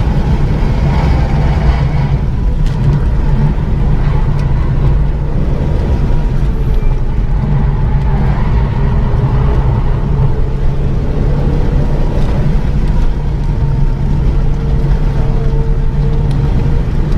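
Renault Mégane 3 RS's turbocharged 2.0-litre four-cylinder engine under load at speed, heard from inside the cabin over road and tyre noise. It runs steadily, with no big revving sweeps.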